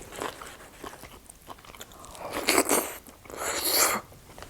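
Close-miked chewing and mouth noises of someone eating a mouthful of food, with two louder bursts about two and a half and three and a half seconds in.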